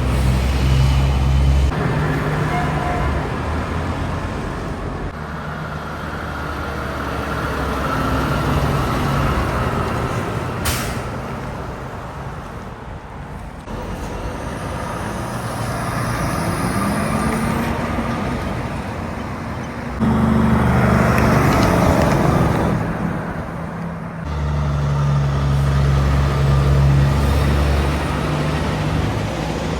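Road traffic with heavy trucks passing one after another, their diesel engines running loud and low, one rising in pitch about halfway through. A brief sharp hiss or click cuts through about ten seconds in.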